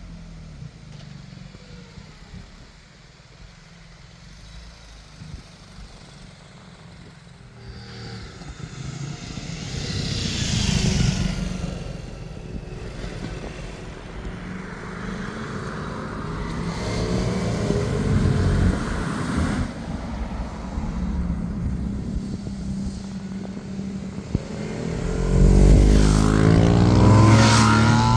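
Motorcycles passing one after another on a road, each engine swelling and fading as it goes by: one about ten seconds in, another around eighteen seconds, and the loudest, revving up, near the end.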